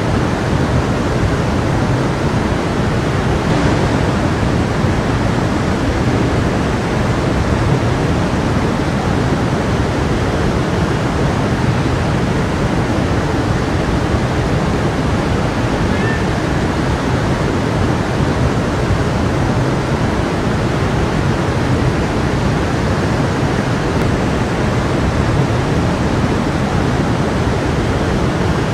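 Stream water flowing in a steady, even rush of running water.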